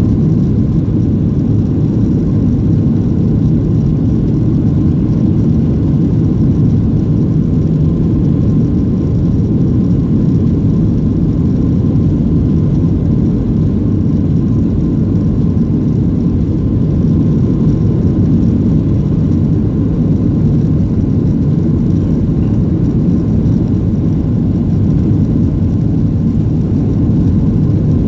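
Steady low rumble of a Boeing 737-700's CFM56 jet engines and airflow, heard inside the passenger cabin, with a faint steady whine above it.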